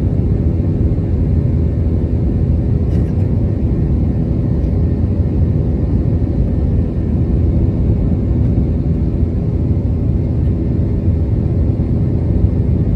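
Airbus A321 jet engines under power, a loud steady rumble with a steady hum above it.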